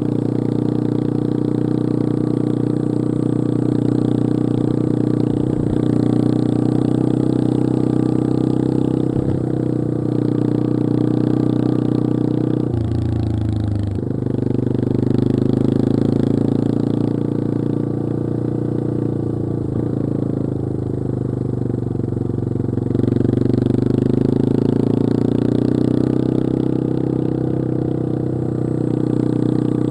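Yamaha XT225 Serow's single-cylinder four-stroke engine running steadily as the bike rides along. About thirteen seconds in the engine note drops sharply for a moment, then picks back up.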